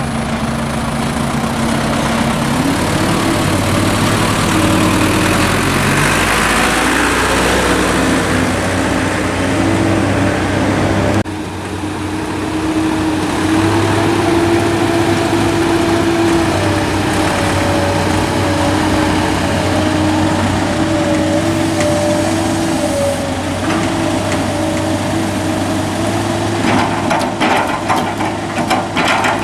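Heavy diesel machinery engine running steadily under load, its pitch stepping up and down as the excavator works while loading a dump truck with soil. Near the end, a run of clattering knocks.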